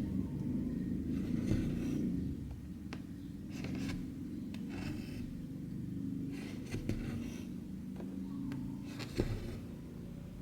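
Cotton embroidery thread being pulled through 14-count cross-stitch fabric: a short soft rasp every second or two, about five in all, with a few light taps from the needle, over a steady low hum.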